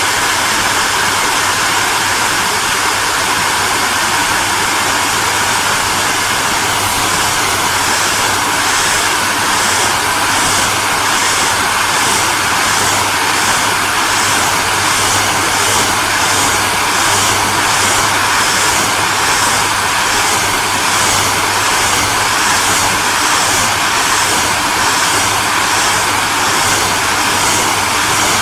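Hair dryer running steadily: a continuous rush of blown air over a low motor hum. From about seven seconds in, a slow, regular pulsing comes into the high part of the hiss.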